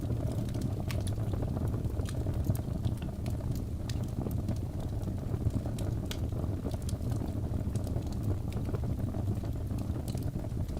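Birch logs burning in a fireplace: a steady low rumble of flames with scattered sharp crackles and pops throughout.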